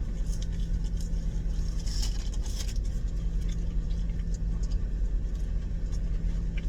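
Steady low hum of a car idling, heard from inside the cabin, with a few faint clicks and rustles, a small cluster of them about two seconds in.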